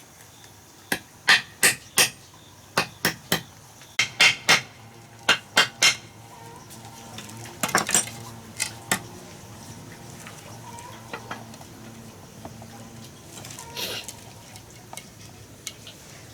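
A quick series of sharp, clinking strikes: about a dozen in the first six seconds, then a few more in the middle.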